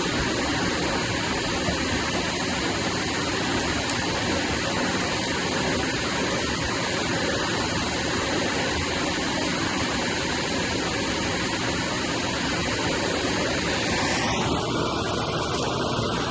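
Vacuum cleaner motor running steadily over carpet, with a change in its tone about fourteen seconds in.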